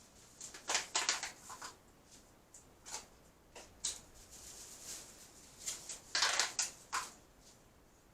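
Irregular rustling and light clicking from handling plastic mealworm containers, with two busier clusters: one about a second in and one near the end.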